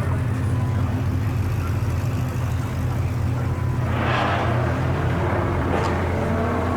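Car engines running at idle in a steady low rumble, with a brief rush of noise about four seconds in.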